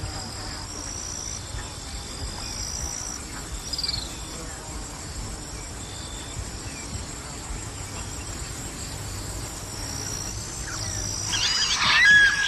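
Insects trilling in repeated high-pitched bursts over a steady background hiss. Near the end a bird breaks in with quick, loud, up-and-down whistled calls.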